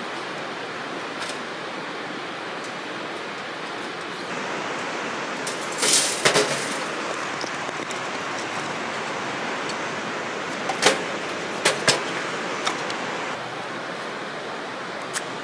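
Steady rushing outdoor background noise, with a few sharp clicks and clinks of camp gear being handled: a short cluster about six seconds in and three more around eleven to twelve seconds.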